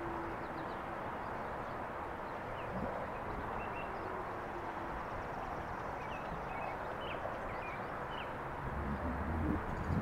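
Small birds chirping in short calls over steady outdoor background noise, with a faint low tone fading out in the first few seconds and a low rumble near the end.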